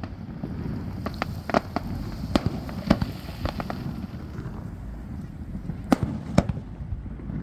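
Fireworks display: aerial shells bursting in a string of sharp bangs, the loudest two close together about six seconds in, over a steady low rumble.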